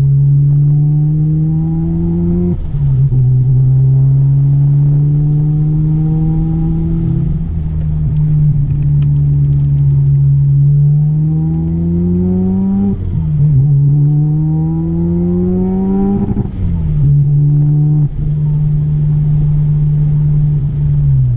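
Single-turbo Mazda RX-7 FD3S's 13B twin-rotor rotary engine pulling hard under full throttle. Its note climbs through the revs and drops sharply at each upshift, four times, with a faint high turbo whine rising alongside.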